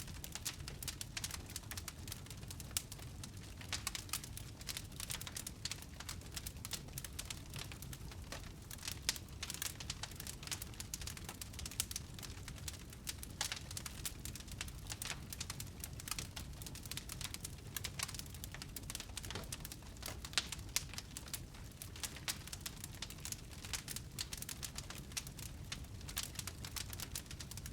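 Wood fire crackling in a fireplace: many irregular pops and snaps over a steady low rumble of the burning.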